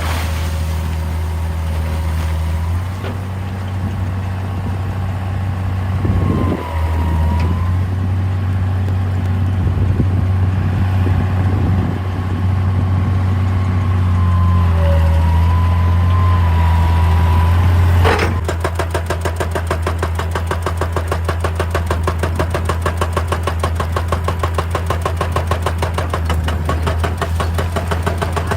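Hitachi EX200 excavator's diesel engine running steadily, with a faint hydraulic whine that shifts in pitch. About two-thirds of the way through there is a sharp knock, and after it the machine settles into a fast, even pulsing.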